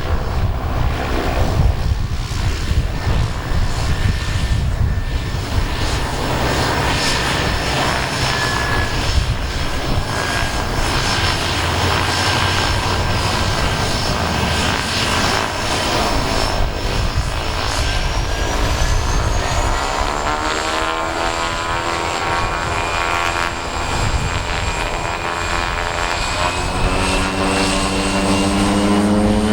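Turboprop aircraft engines at takeoff power during the takeoff roll: a heavy rumble with a whine that rises in pitch in the second half, growing louder near the end as the propeller tones strengthen.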